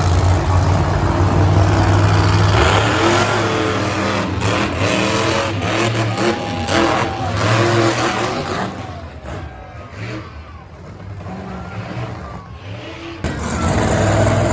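Monster truck engines running loud at full throttle, pitch rising and falling as they rev. The sound drops back for a few seconds, then a loud engine comes back in near the end.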